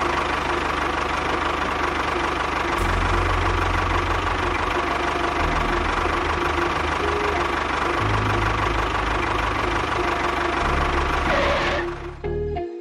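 Small engine of a miniature tractor running steadily, cutting off about twelve seconds in.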